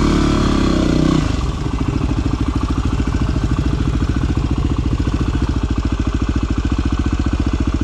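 Dirt bike's single-cylinder engine settling from a light rev to a steady idle about a second in, then ticking over with an even beat.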